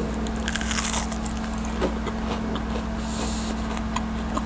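Biting into and chewing a thick, crispy breaded onion ring, with crackly crunches in the first second or so and again about three seconds in, over a steady low hum.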